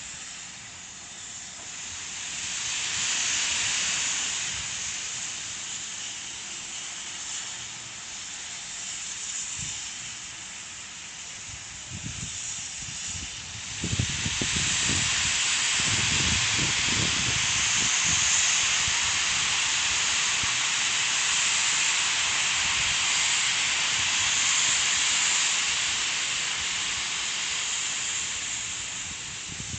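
Steam locomotive BDZ 46.03 hissing steam. The hiss swells briefly early on, then jumps louder about halfway through and stays loud, with some low rumbling just after the jump.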